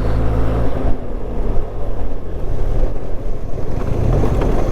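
Benelli TRK 502's parallel-twin engine running under way, with wind rushing over the rider's microphone; the engine note shifts briefly about halfway through, then settles again.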